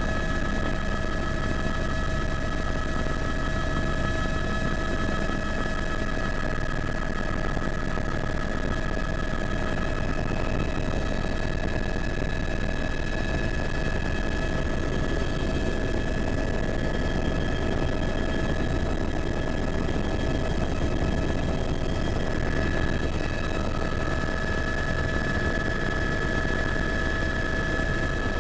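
Helicopter running steadily: an even engine and rotor noise with a constant high whine that does not change.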